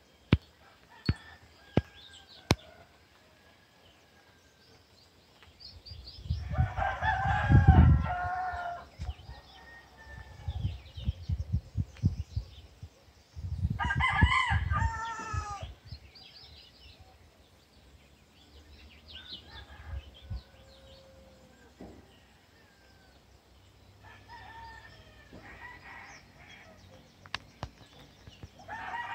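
Birds calling: long calls of about two seconds each, the loudest about seven seconds in and another about fourteen seconds in, with fainter ones near the end. Faint short chirps come between them, and there are a few sharp clicks near the start.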